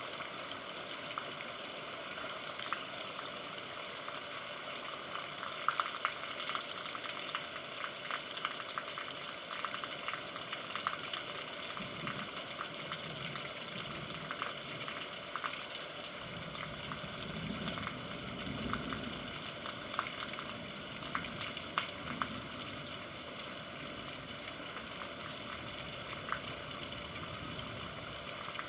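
Steady rain falling: a dense hiss with many separate drop ticks through it. A faint low rumble comes and goes in the middle.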